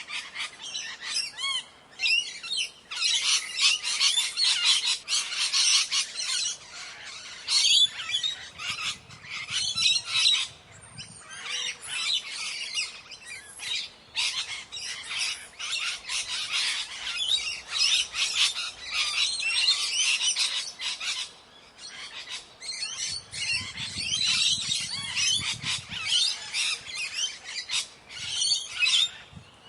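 Indian ringneck parrot squawking and chattering in long, rapid runs of shrill calls, broken by a few brief pauses.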